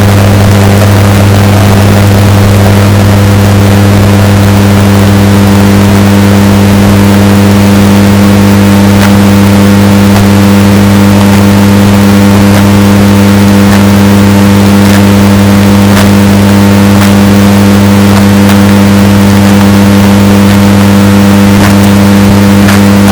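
Washing machine running with a steady, unchanging motor hum, bass-boosted until it is heavily distorted and very loud, with a few faint clicks.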